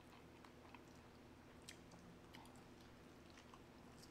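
Faint close-miked chewing of pepperoni pizza: soft, irregular mouth clicks over a low steady hum.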